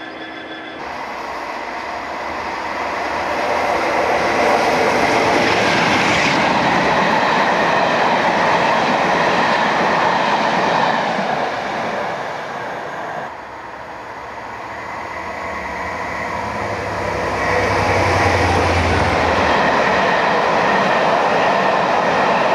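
Locomotive-hauled trains passing close by: wheels running on the rails build to a loud, steady rumble, die away around thirteen seconds, then build again as a diesel locomotive's low engine hum passes and its train of coaches rushes by.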